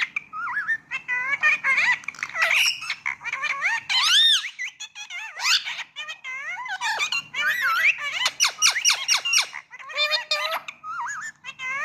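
Indian ring-necked parakeet chattering in a long run of quick squeaky, warbling calls and squawks that bend up and down in pitch, with short pauses between bursts.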